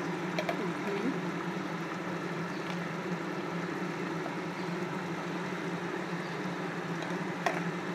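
Fish curry simmering in a kadai on the stove over a steady low hum, with a light click near the start and another near the end.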